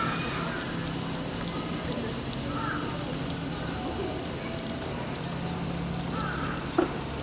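Loud, steady high-pitched drone of a chorus of insects, with a few faint short chirps over it.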